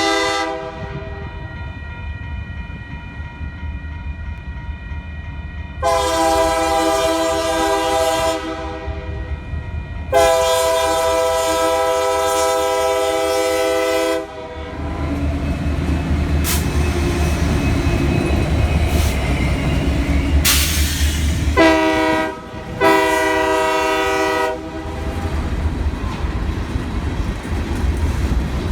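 Passing train with a low engine and wheel rumble and clacking on the rails. Its multi-note air horn sounds long, long, short, long, the pattern sounded for a road crossing.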